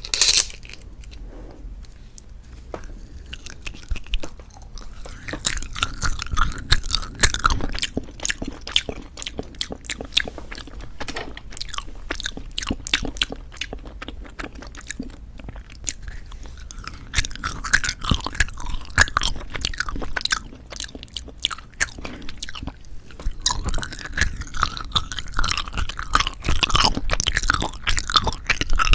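Close-miked chewing and biting of novelty jelly candies: dense runs of sharp, wet mouth clicks that come in spells, busiest a few seconds in, past the middle and near the end.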